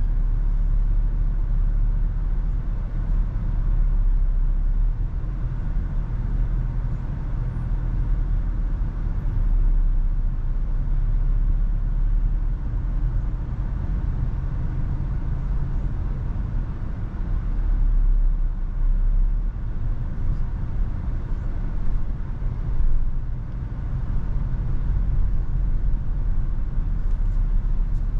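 Steady low rumble of a Toyota FJ Cruiser driving, road and engine noise mixed with heavy wind, swelling and easing a little without any distinct events.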